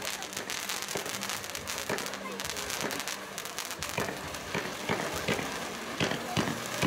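Fireworks going off: a dense rattle of crackles, then separate sharp bangs about once a second, coming closer together in the last three seconds.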